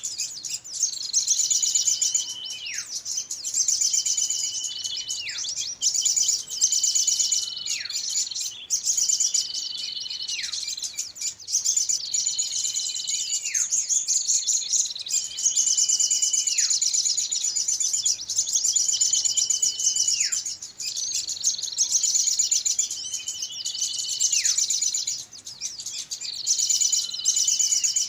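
Bird-lure recording of many small songbirds calling together: a dense, rapid high chatter throughout, with a whistled call about every three seconds that holds a note and then drops steeply in pitch.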